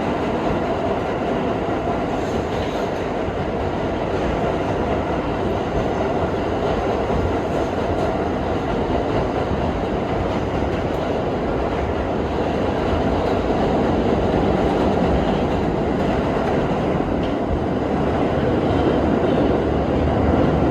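R32 subway train running through the tunnel, heard from aboard: a steady rumble of steel wheels on rail with clickety-clack over the joints, growing a little louder near the end.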